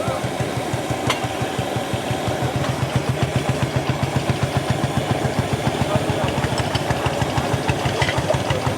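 Lanz Bulldog's single-cylinder hot-bulb two-stroke engine running with an even, rapid pulsing beat. A sharp click sounds about a second in.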